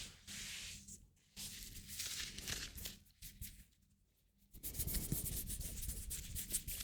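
Hands rubbing close to the microphone in soft, hissy strokes. The rubbing stops briefly about a second in and again for about a second past the middle, then resumes as busier rustling with small crackles.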